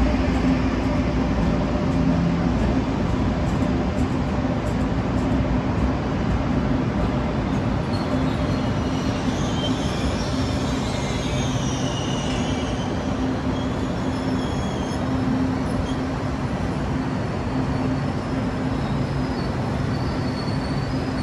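Frecciarossa high-speed electric train moving along the platform, with a steady hum and low rumble throughout. Thin, high wheel squeal comes in for a few seconds in the middle.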